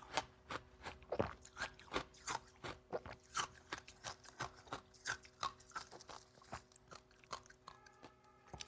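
Close-up chewing of dry, powdery freezer-frost ice, a steady run of crisp crunches at about two to three a second that thins out near the end.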